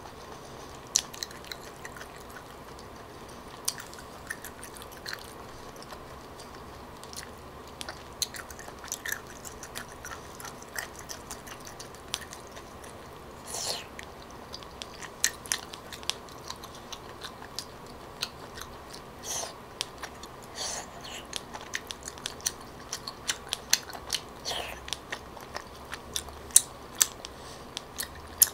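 Close-miked mouth sounds of someone chewing tteokbokki rice cakes and crunchy baby octopus: scattered soft clicks and wet smacks, irregular and spaced out, over a faint steady hum.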